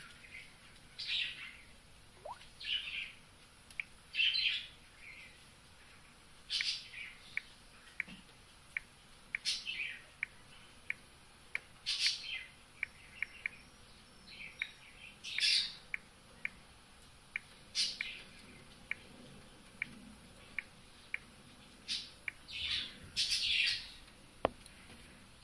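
Birds chirping: short, high calls every second or two, with quick single chip notes in between.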